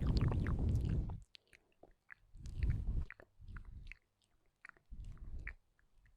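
Close-miked ASMR mouth sounds: wet clicks and smacks of the lips and tongue, coming in three short bursts with a low rumble on the microphone.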